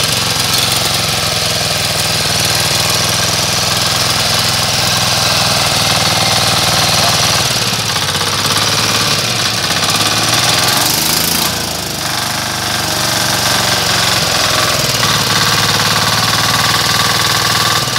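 Maestro 10 HP single-cylinder diesel engine running steadily with a rapid knocking beat, dipping briefly in loudness about two-thirds of the way through.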